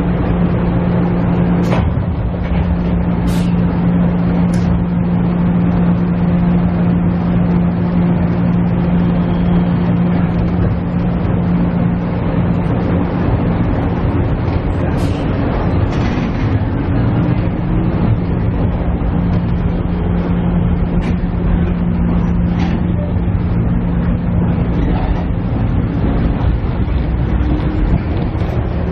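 Interior running sound of a KiHa E130 diesel railcar: the diesel engine drones steadily under the noise of the wheels on the rails. The engine note drops away for a few seconds about halfway through, then comes back, and a few short clicks and knocks sound over the running noise.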